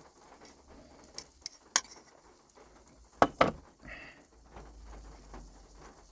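A few sharp clicks and knocks of kitchen utensils and food being handled, the loudest two close together about three seconds in.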